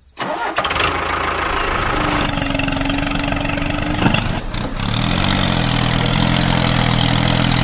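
An engine-like motor running steadily, shifting in pitch about five seconds in.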